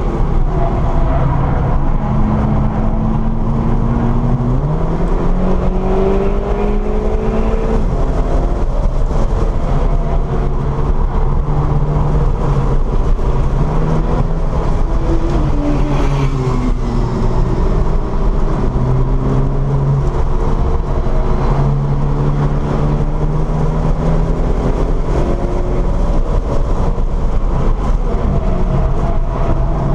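Volkswagen Scirocco's engine heard from inside the cabin on a hot lap, its pitch climbing under acceleration and dropping with gear changes and lifts. Steady road and wind noise runs underneath.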